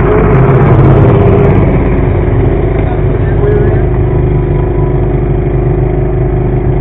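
Garden pulling tractor's engine running hard under load, pulling the weight-transfer sled; a steady loud drone that swells slightly about a second in.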